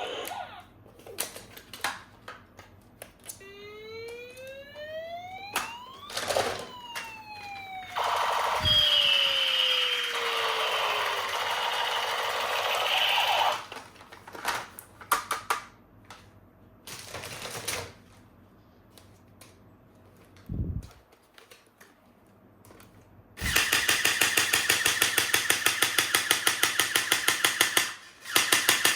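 Electronic sound effects from battery-powered toy guns: a siren-like tone that rises and then falls in pitch, then a loud, fast repeating firing sound near the end, among clicks of plastic being handled.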